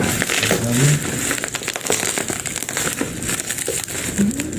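Packaging crinkling and crackling as a sealed parcel is pulled open by hand, with irregular rustles and snaps.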